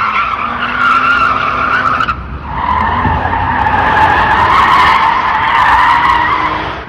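Car tyres squealing in long skids: a loud, wavering screech that breaks off about two seconds in and starts again half a second later, with a low engine rumble underneath.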